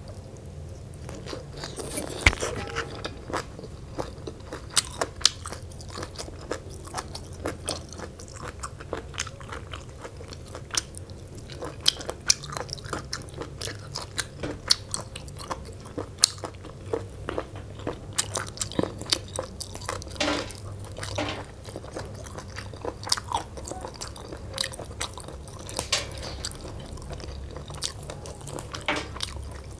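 Close-miked chewing and biting of raw leafy greens and spicy papaya-style noodle salad, with irregular sharp crunches all through.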